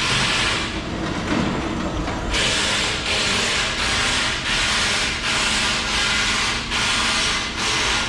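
Hand saw strokes, back and forth in a steady rhythm of about one and a half strokes a second, after a less even rasping start, as of cutting into the broken exhaust muffler's casing to see inside.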